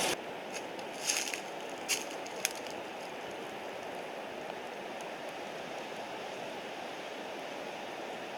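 Steady rushing of a mountain stream, with a few light clicks in the first couple of seconds.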